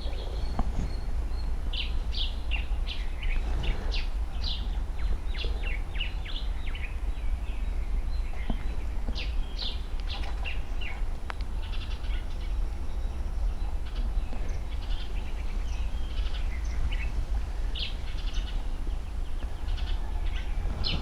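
Small birds chirping: many short calls scattered throughout, over a steady low hum.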